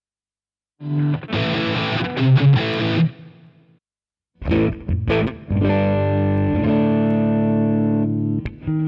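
Electric guitar played through a Fractal Audio FM9 amp-modeler preset with distortion: a strummed phrase that rings and dies away, a short silence, then picked notes into a long held chord, with short chopped chords near the end.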